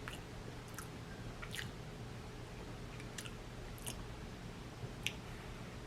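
A person chewing and eating seafood boil close to the microphone, with several short wet mouth smacks scattered through.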